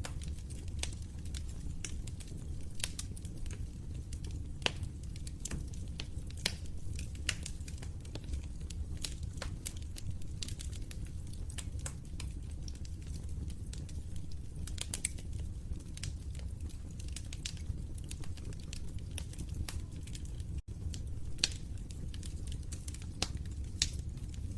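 Fire in a fireplace crackling, with frequent sharp pops and snaps over a steady low rumble of burning.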